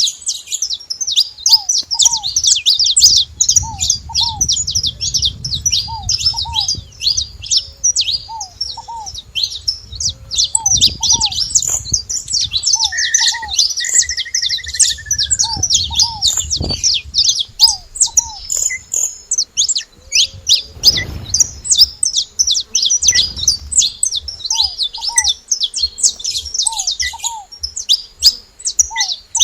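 Saffron finches chirping in a dense, continuous stream of short high notes. Under them, another bird repeats a short, lower two-note call every second or two.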